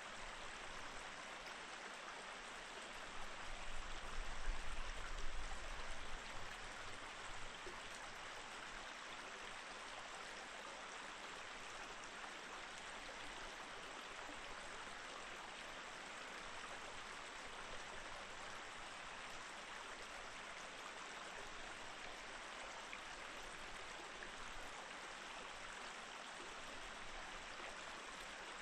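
Mountain stream flowing steadily, a continuous rushing of water. A low rumble swells for a few seconds a little after the start.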